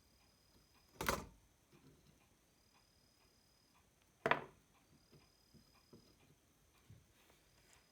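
Two sharp snaps about three seconds apart, side cutters cutting through the pins of a damaged sound amplifier IC on a circuit board, with faint small clicks of handling between.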